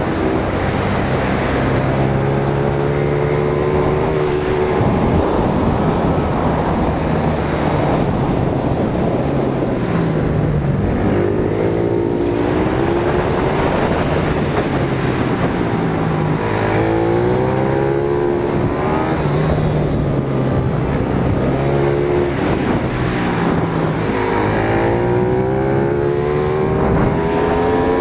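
Pit bike's small single-cylinder four-stroke engine heard on board, repeatedly revving up under acceleration and dropping back as the throttle closes, its pitch rising and falling every few seconds.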